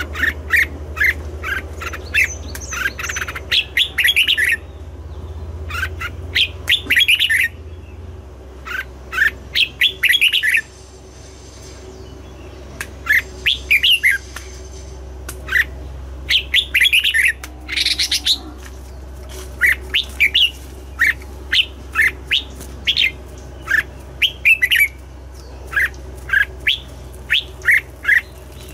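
Red-whiskered bulbul song: quick phrases of short, sharp notes, repeated with brief pauses between them, over a steady low hum.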